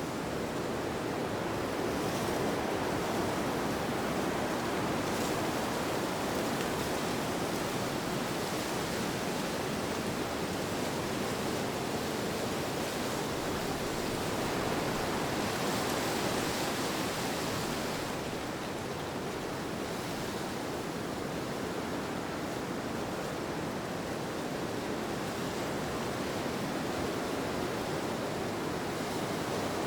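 Steady rushing wind ambience with no distinct events, swelling a little and brightening about halfway through before easing back.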